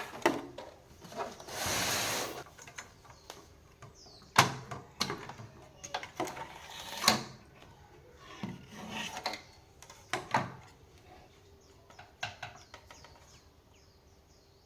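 Irregular knocks, clicks and scrapes of tools and parts being handled, with a short rustling noise about two seconds in.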